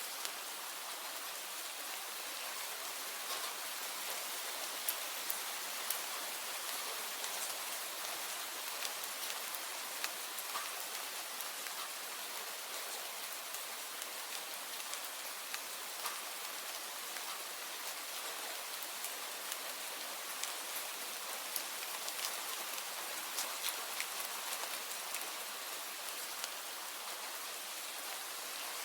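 Steady rain falling, an even hiss with many scattered sharper drop hits.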